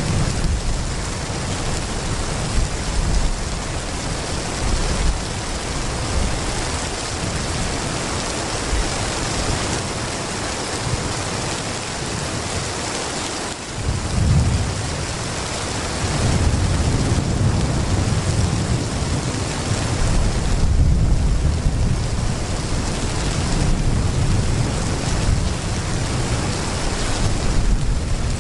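Heavy rain pouring steadily, with low thunder rumbling underneath. The rumble fades out briefly about halfway through, then returns louder.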